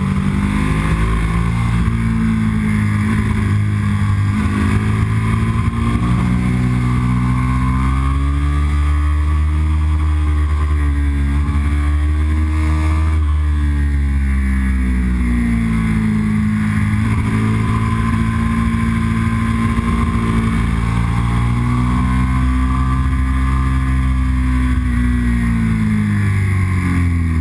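Yamaha R1 sport bike's inline-four engine running steadily, heard from on the bike. Its pitch rises and falls slowly a few times as the throttle and gears change.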